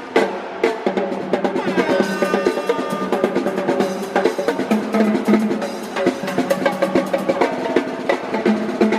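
Live drum performance: fast, dense snare and drum hits in a steady rhythm over pitched backing music.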